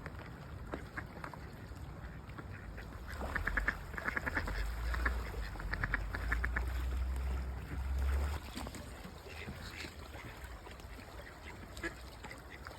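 Mallard ducks quacking in quick runs of short calls, busiest from about three to eight seconds in, over a low rumble.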